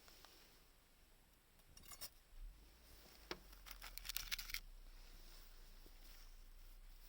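Faint crackling of a small wood fire burning in a homemade can-built secondary-combustion burner. A few isolated snaps come about two seconds in, then a quick run of crackles near the middle.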